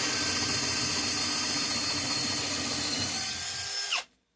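Electric power tool motor running steadily under load, then switched off near the end, its whine falling quickly in pitch as it spins down.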